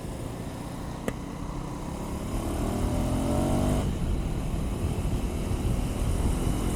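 KTM 390 Adventure's single-cylinder engine pulling in sixth gear in Rain riding mode, its note rising for about a second and a half and then dropping off as the throttle eases, starting to rise again near the end. Wind and road rush run underneath, with a single sharp click about a second in.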